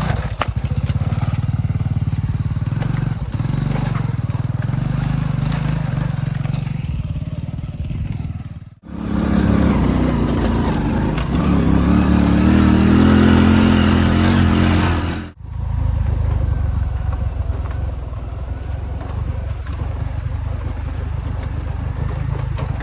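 Motorbike engine running steadily, in three stretches that cut off abruptly; in the middle stretch the engine is louder and its pitch climbs as it revs up.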